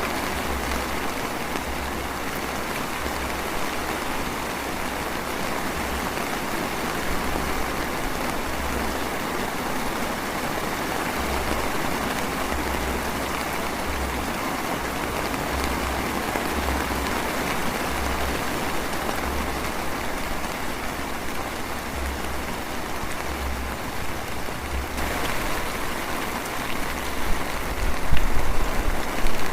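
Light drizzle falling, a steady even hiss of rain, with a louder low rumble near the end.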